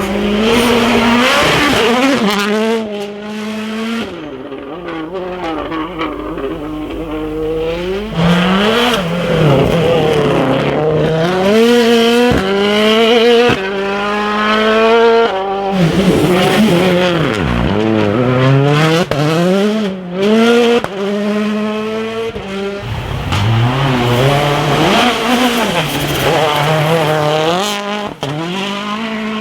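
2017-spec World Rally Car's turbocharged four-cylinder engine being driven hard. It revs up again and again, its pitch climbing through each gear, then dropping sharply at the shifts and when the driver lifts off.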